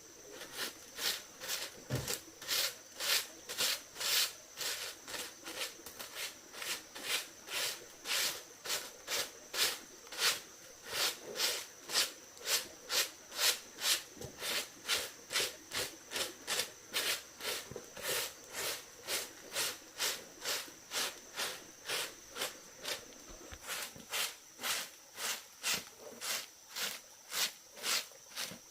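A steady run of short, even strokes, about two and a half a second, over a faint steady high tone.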